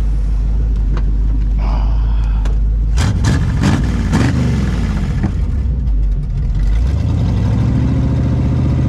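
1971 Chevrolet Chevelle wagon's engine running. It is revved about three seconds in, the revs falling back over the next second, and the revs climb again about seven seconds in.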